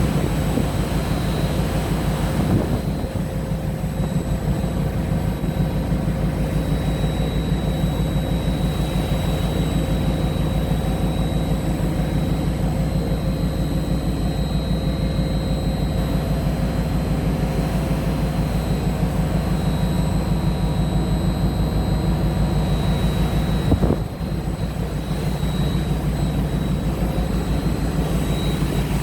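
A ship's engine running with a steady low drone and a fast, even throb, with a faint high whine over it.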